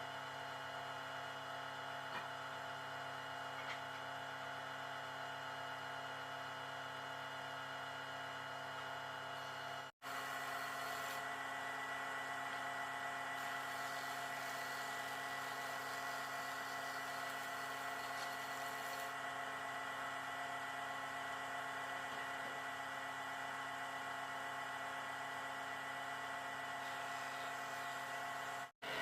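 A steady hum made of several constant tones, broken by two brief sudden cut-outs, one about a third of the way in and one near the end.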